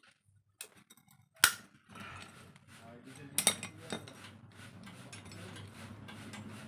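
Sharp metal clicks and clinks as vise-grip locking pliers work at a motorcycle chain's master link clip, the loudest about one and a half seconds in. A steady low hum comes in from about two seconds in.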